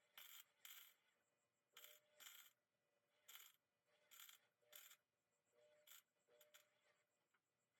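Near silence broken by about ten faint, short, light metallic clicks at irregular intervals.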